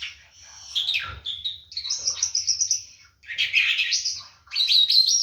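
A songbird singing in a string of rapid, high twittering phrases with short pauses between them, including a fast run of repeated notes partway through.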